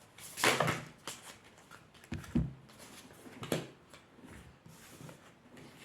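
Oracle cards being handled: a few short swishes and soft taps, the loudest about half a second in, with a low thud about two and a half seconds in.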